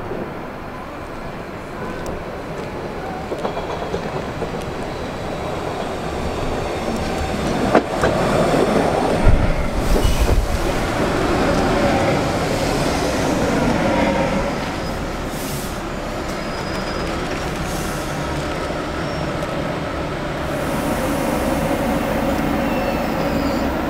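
A Cleveland RTA Red Line rapid-transit train of Breda-built heavy-rail cars running into the station alongside the platform, with steady wheel-on-rail rumble. The noise builds as the train comes in and is loudest about eight to fourteen seconds in, with a few sharp knocks. It then settles to a lower steady running noise as the cars pass close by.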